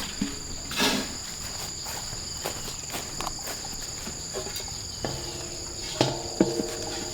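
Insects singing steadily at a high pitch, with scattered light knocks. Two of the knocks, about five and six seconds in, are followed by a brief ringing tone.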